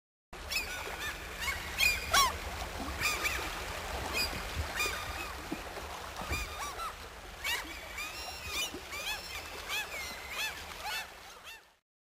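Many birds calling over one another: a dense run of short, arched calls, with a low steady hum underneath. The sound cuts in and cuts out abruptly.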